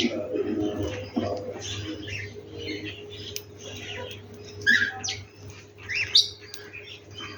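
Many birds chirping and calling over one another in a mixed chorus, with short, sharp notes overlapping throughout.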